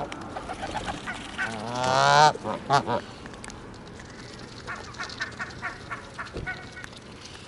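Barnacle geese calling: one loud, drawn-out honk about two seconds in and a shorter one just after, then a quick run of fainter short calls around five to six seconds in.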